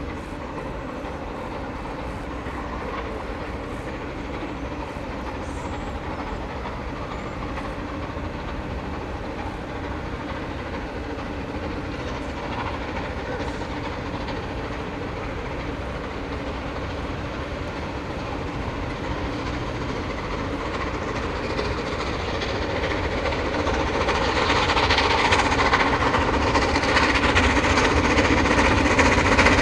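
A train running on the line and approaching, its noise growing steadily louder, most of all over the last several seconds.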